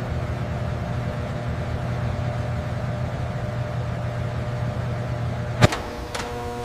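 Steady mechanical hum with a few fixed tones over a noisy hiss. A sharp click comes about five and a half seconds in, then a softer one, after which the hum turns quieter and higher-toned.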